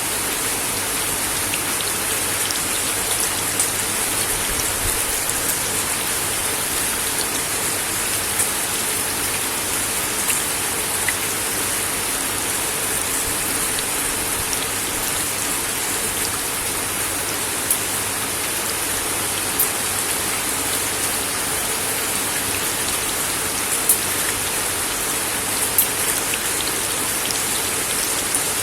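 Steady rain falling on a wooden deck: a dense, even hiss, with louder single drops ticking now and then.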